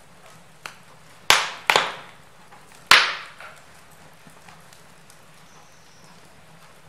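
Wood logs burning in a fireplace, crackling and popping: a small pop, then three sharp loud pops, each dying away quickly, over a faint steady hiss of the fire.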